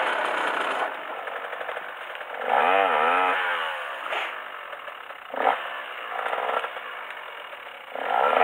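Dirt bike engine running on a slow trail climb, its buzz rising and falling with throttle blips twice, about three seconds in and near the end. A couple of short sharp knocks come in between.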